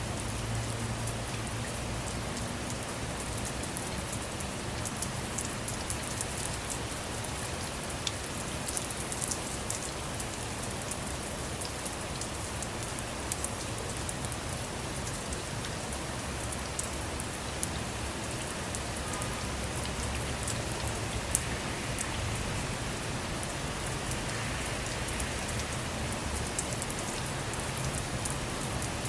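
Steady rain falling on a car's body and windows, heard from inside, with many small drop ticks and a couple of louder single drops, one about 13 seconds in and one about 21 seconds in.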